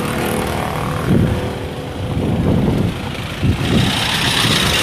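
Vehicle engines running in slow, jammed street traffic, with a few short revs. A hissing noise comes in near the end.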